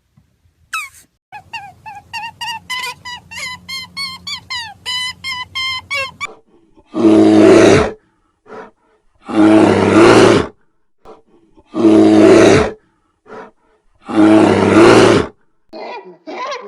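An animal's rapid run of short, high calls, each dipping in pitch, then four loud roars of about a second each, roughly two and a half seconds apart.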